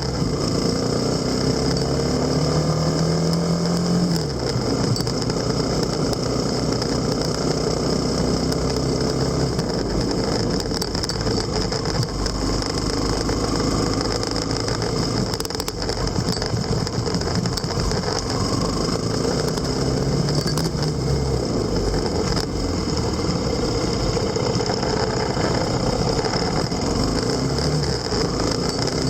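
Motorcycle engine running while riding, its pitch rising under acceleration and dropping back several times, over steady road and wind noise.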